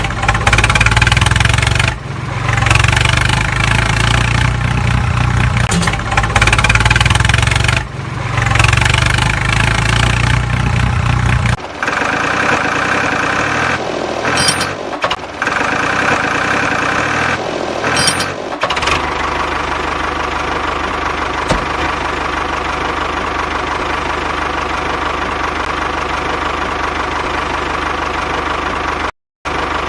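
Tractor engine running and idling, with a heavy low throb in the first part. The sound is spliced from several segments, changing abruptly a few times and cutting out briefly near the end.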